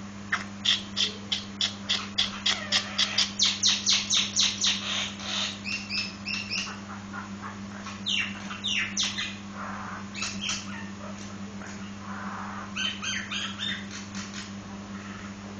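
Nias hill myna (jalak nias) calling: a fast run of loud, repeated calls that come quicker over the first five seconds, then scattered varied whistles and squawks. A steady low hum runs underneath.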